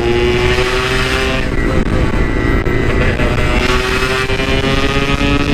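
Yamaha RX-King's single-cylinder two-stroke engine running under way through a stock-style muffler. Its pitch climbs slowly as it accelerates, eases off about a second and a half in, then climbs again near the end, over a steady low rumble.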